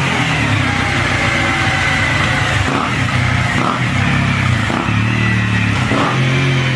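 Exhaust note of a Honda CBR250R's single-cylinder engine through an aftermarket WRS muffler, running steadily with its pitch shifting a few times as the throttle changes.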